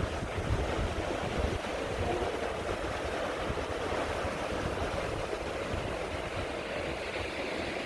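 Sea surf breaking and washing over shoreline rocks in a steady rush, with wind buffeting the microphone as a gusty low rumble.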